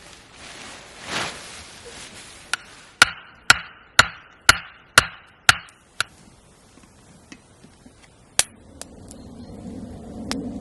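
Hammering: a run of sharp, evenly spaced blows, about two a second, each with a short ring, followed by a few lighter knocks.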